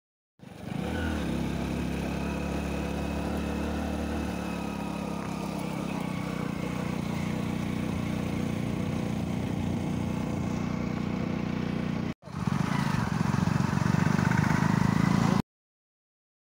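Hero Splendor motorcycle's single-cylinder four-stroke engine running steadily while being ridden, heard from the rider's seat. It breaks off briefly about twelve seconds in, comes back louder, and stops suddenly near the end.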